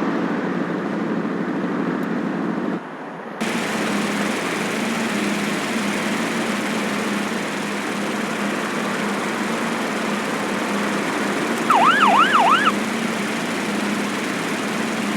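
Car engine running steadily, with a short break about three seconds in. About twelve seconds in, a loud siren-like warble sweeps quickly up and down several times for about a second.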